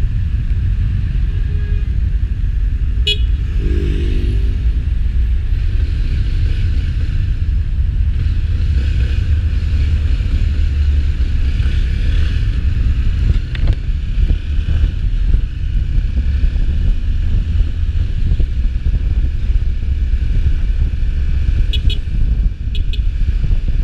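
Road traffic with a steady low rumble, and a vehicle horn sounding briefly about four seconds in.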